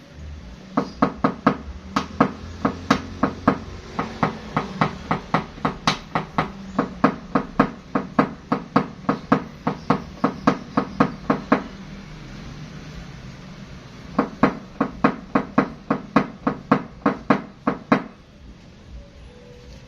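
Steady hammer blows knocking out a dent in metal, about two to three strikes a second in two runs with a short pause between them.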